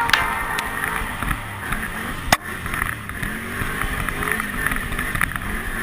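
Can-Am XMR ATV's V-twin engine running, its pitch rising and falling as the throttle changes, with one sharp click about two seconds in.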